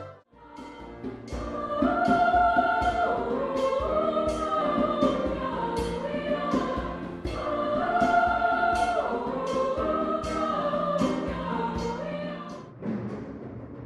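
A choir singing a phrase whose melody rises and falls, in several voices, over a regular beat of short ticks about twice a second. It begins just after a brief break at the start.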